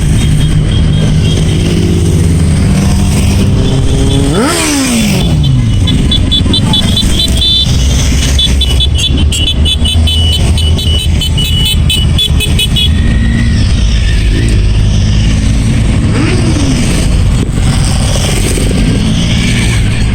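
A procession of motorcycles riding past with engines running steadily, one passing close about four seconds in with its pitch dropping sharply as it goes by. A high, rapidly pulsing tone sounds from about six to thirteen seconds in.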